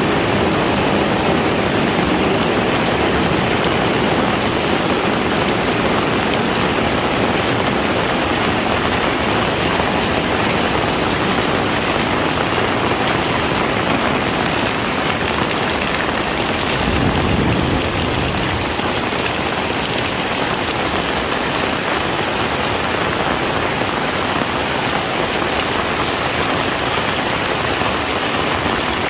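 Heavy rain falling steadily, a dense even hiss of drops on surfaces, with a brief low rumble swelling about halfway through.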